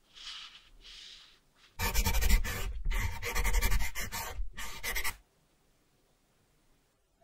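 Scratchy rubbing of a watch part being polished: two soft strokes, then a louder stretch of about three seconds with brief breaks that stops suddenly.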